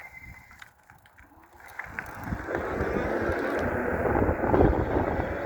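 Riding a 5,000-watt electric bike on the throttle: wind on the microphone and road noise rise steadily from about two seconds in as it picks up speed, after a quieter start.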